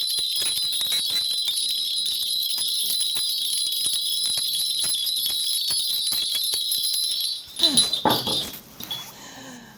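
A shaman's cluster of ritual bells (mugu bangul) shaken continuously in a rapid, steady jingle, the bells being rung to call the spirits during a divination. The jingling stops about seven seconds in, followed by a brief louder, lower sound.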